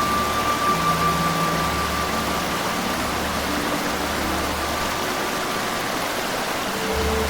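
Steady rushing noise, with faint held tones of soft background music over it.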